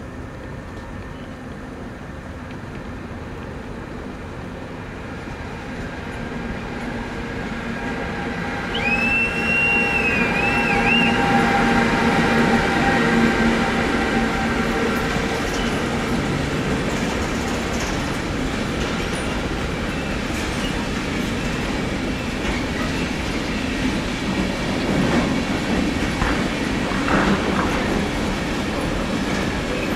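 Freight train approaching and passing: its rolling rumble builds over the first several seconds and stays loud, with a brief wavering wheel squeal about nine seconds in and a few wheel knocks near the end.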